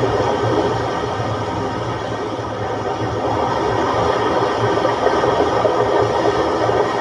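Rough sea with waves of one to two metres, making a steady rushing noise with no separate crashes.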